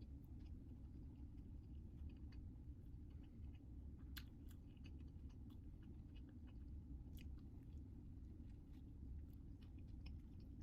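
Faint chewing, with scattered small crunches of food, over a steady low hum.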